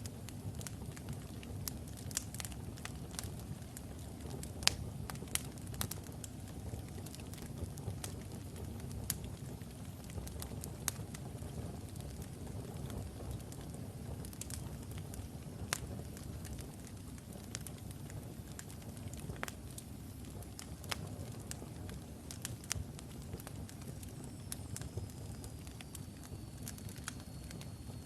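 Wood logs burning in a fireplace: a steady low rumble of the flames with frequent sharp, irregular crackles and pops, one louder pop about five seconds in.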